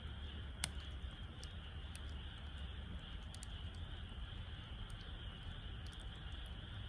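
Wood fire burning in a Snow Peak Takibidai fire pit, crackling with scattered small pops and one sharp pop a little over half a second in, over a steady high hiss.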